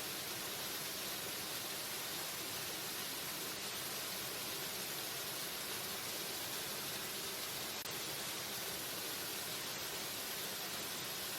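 Steady rushing of a waterfall: an even hiss of falling water that holds the same level throughout.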